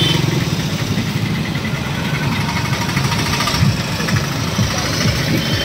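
Small motorcycle engine idling close by, a steady low throb, under the noise of a busy street.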